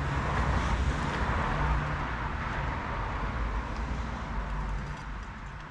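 Starter motor cranking a rebuilt classic Mini 1380 A-series engine on its first start attempt, turning it over without it catching; the cranking eases off near the end. The engine has lost its spark and the battery is weak, so it does not fire.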